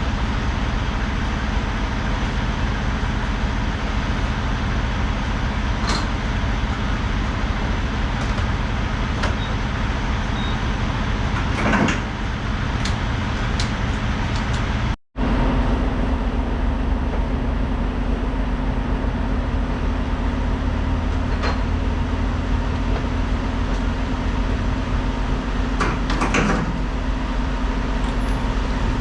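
Semi truck's diesel engine and road noise heard from inside the cab, a steady low drone with a few brief clicks or rattles. It drops out for an instant about halfway through and resumes with a slightly different hum.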